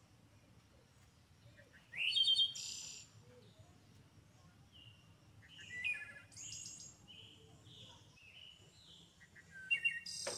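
Songbird calling: bursts of high chirps and rapid trills, one rising, about two seconds in, around six seconds and again just before the end, over a faint steady low hum.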